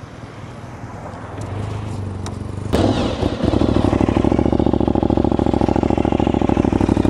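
Aprilia RS660's parallel-twin engine with an Arrow full exhaust and dB killer starting up about two and a half seconds in, catching suddenly, then settling into a loud, steady idle with an even pulsing exhaust beat.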